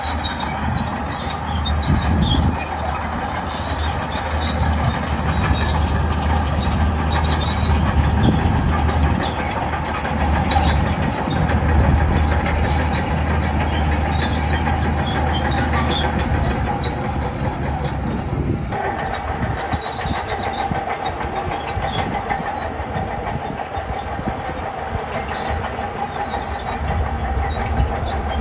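Shantui crawler bulldozer working: diesel engine running steadily with the clanking and rattling of steel tracks. The higher clatter drops away abruptly about two-thirds of the way through.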